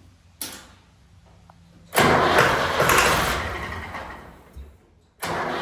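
A short hiss, then a loud rushing noise that fades away over about three seconds; near the end the starter suddenly begins cranking the Long 360's diesel engine steadily. The engine is being tried on ether with a fuel system still full of air, which the owner blames for it not starting.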